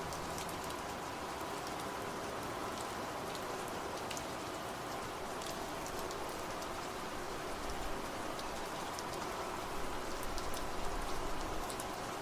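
Steady rain falling, an even hiss with individual drops ticking on surfaces. A low rumble swells about eight seconds in and fades again near the end.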